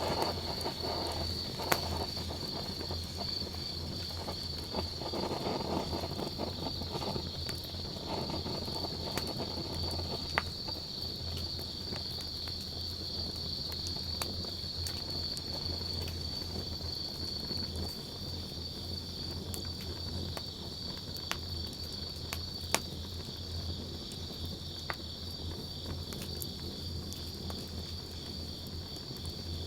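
Wood fire crackling, with scattered sharp pops and a low steady rumble, under a steady high chirring of insects.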